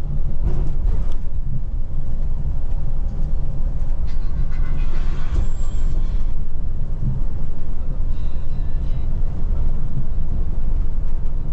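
Scania Metrolink multi-axle bus on the move: a steady low engine and road rumble, with a brief hiss about five seconds in.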